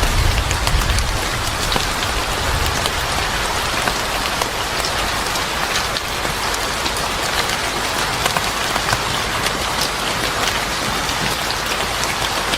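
Steady, heavy rain falling on a hard surface, a dense hiss with many small drop ticks through it. A low rumble dies away in the first couple of seconds.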